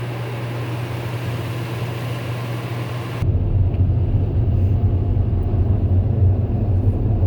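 Automatic car wash dryer blowers running, heard from inside the car: a steady hum, then about three seconds in it changes abruptly to a heavier low rumble as the air blast hits the car.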